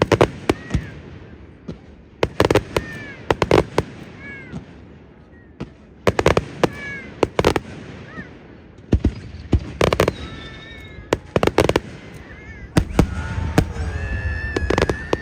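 Aerial fireworks going off in rapid clusters of sharp bangs every few seconds. Thin whistling tones glide up and down in pitch between the bursts, with a longer whistle near the end.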